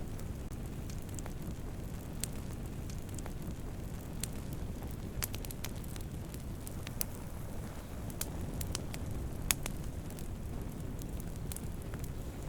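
Wood campfire burning: a steady low rumble of flames with irregular sharp crackles and pops from the burning wood, one pop standing out louder near the end.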